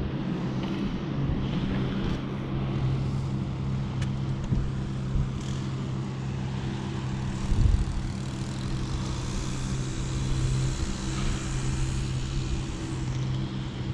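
A motor running steadily with an even low hum that does not change in pitch.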